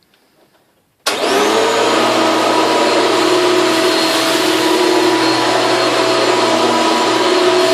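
Hoover Legacy Supreme U5099 upright vacuum cleaner switched on about a second in, its motor spinning up quickly and then running at a loud, steady whine with several held tones.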